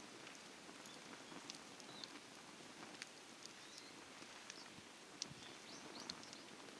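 Faint crackling of a wood campfire: scattered small ticks and pops with tiny squeaks, one sharper pop a little past five seconds.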